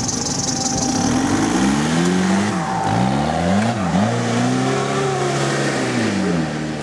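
Modified off-road 4x4's engine revving hard under load, its pitch rising and falling several times, with two sharp dips and recoveries in the middle, as the vehicle works its way over rough ground.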